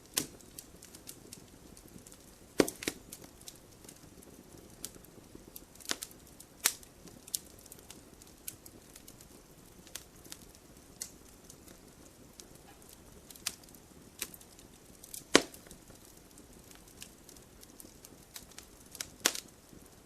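Firewood burning in a wood stove: a low steady hiss with irregular sharp crackles and pops, the loudest a few seconds in, about fifteen seconds in, and near the end.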